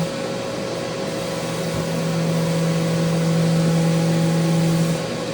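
Electric power sander running against a mounted handrail: a steady motor hum over sanding hiss. The hum weakens at the start, returns about two seconds in, and weakens again near the end.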